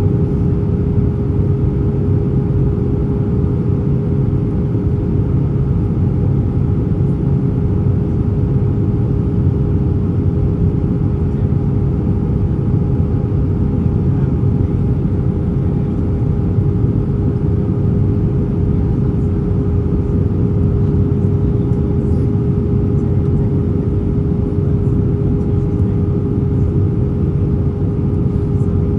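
Airbus A320 cabin noise in flight: a steady deep drone of engines and airflow with a constant hum tone over it, unchanging throughout.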